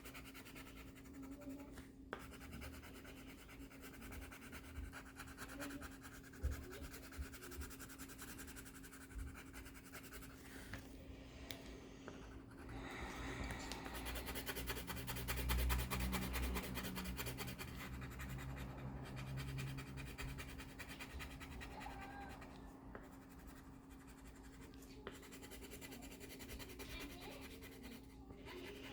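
Colouring on paper: a drawing tool scratching in quick back-and-forth strokes to fill in a drawing, heaviest and loudest about halfway through, with a faint steady hum underneath.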